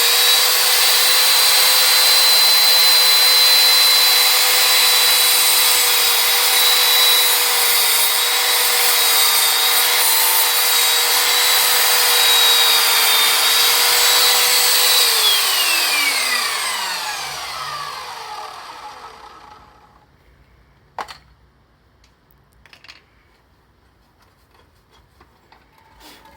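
Electric chop saw running with a steady high whine as it cuts through clamped wood, then switched off about fifteen seconds in, its blade winding down with a falling pitch for several seconds. A single knock follows a little later, then faint clicks.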